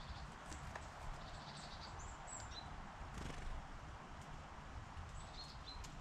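Small garden birds giving short, high chirps: a quick stuttering series near the start, a few brief down-slurred notes about two seconds in, and more near the end. Beneath them runs a steady outdoor hiss and rumble, with a few light taps.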